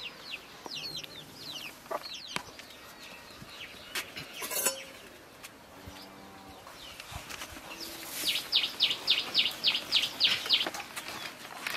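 Birds calling in a village yard, with a fast run of about a dozen sharp high calls, some five a second, near the end. A few sharp clicks fall in the first half.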